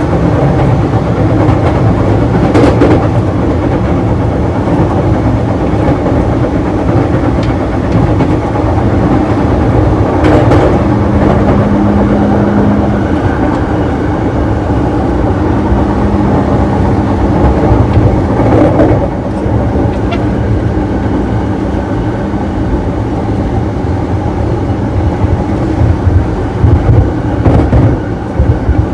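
JR East E233-series electric train running, heard from inside the gangway between two cars: a loud, steady rumble of wheels, bogies and gangway, with an occasional knock over the rails and a brief steady hum about ten seconds in.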